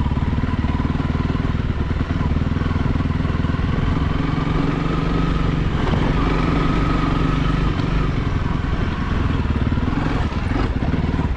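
Honda CRF300L's single-cylinder four-stroke engine running steadily while the bike tractors along at low speed.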